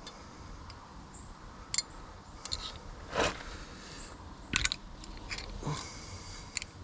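Scattered metallic clicks and clinks of hand tools and brake parts being handled, with a short scraping crunch about three seconds in.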